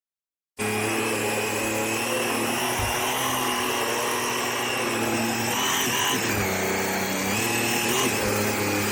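Eureka RapidClean Pro cordless stick vacuum's motor running, a steady whine with hiss that cuts in abruptly about half a second in. Its pitch shifts a couple of times in the second half.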